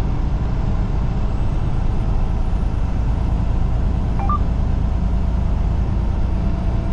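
Steady low rumble of a semi-truck's engine and tyres on the highway, heard from inside the cab while driving. A brief short chirp sounds about four seconds in.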